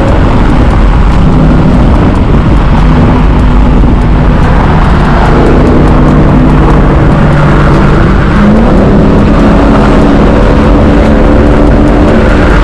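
Car engine running hard, loud and steady, its note holding level and then stepping up in pitch about two-thirds of the way through, with a steady rushing noise underneath.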